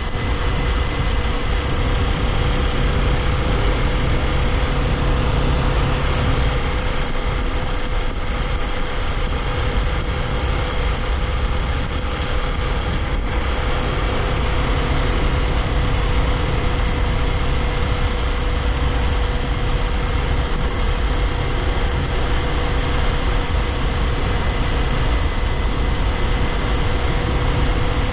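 Kawasaki Ninja 400's parallel-twin engine running at a steady cruise, with wind and tyre noise from the ride. The engine note holds a steady pitch with only small changes.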